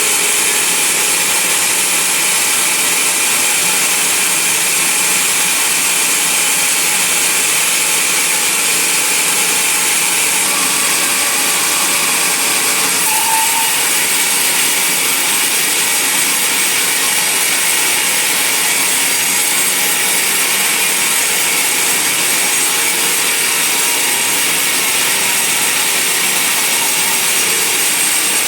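Band sawmill blade cutting lengthwise through a large mahogany log: a steady, high-pitched whine of the saw in the wood at an even level.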